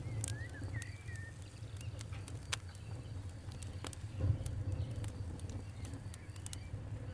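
Wood fire crackling, with irregular sharp pops and snaps over a low steady rumble. A few faint bird chirps come in the first second or so.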